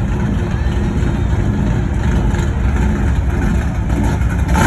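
Car engines running in slow cruise traffic, a steady low rumble, with a brief louder burst near the end.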